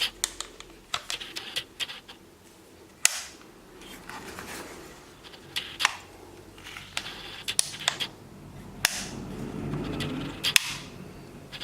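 Tokyo Marui MP7 gas blowback airsoft gun being handled: a string of sharp clicks and snaps at irregular intervals, the loudest about three seconds in and near the end, with rustling between.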